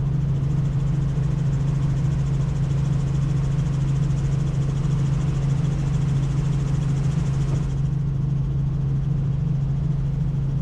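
Helicopter in flight: a steady, loud drone of rotor and turbine engine with a constant low hum and hiss over it. The hiss eases about eight seconds in.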